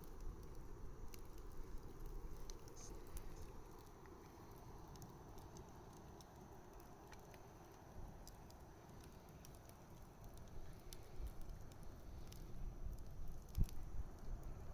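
Wood bonfire burning: a soft steady rush with scattered small crackles and snaps, busier near the end, where one sharper pop is the loudest.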